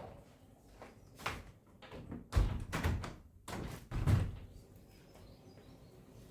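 A few dull knocks and thuds, the loudest about two and a half and four seconds in.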